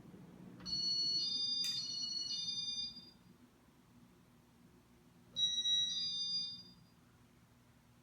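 Two short electronic melodic tone sequences, each a few steady high notes stopping abruptly, the first about two seconds long with a click in it, the second about a second and a half, over a faint low steady hum.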